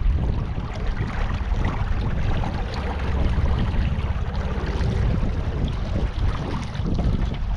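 Steady low rumble of wind buffeting the microphone, mixed with water noise, as a boat moves along the river.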